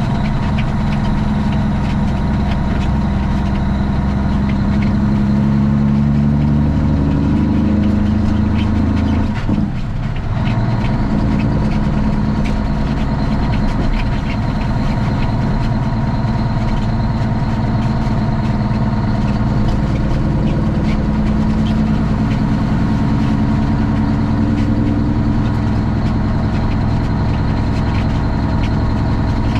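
Straight-piped Cummins ISX inline-six diesel in a Kenworth T800 semi truck running. Its note climbs slowly for about nine seconds, drops briefly, then holds steady for the rest.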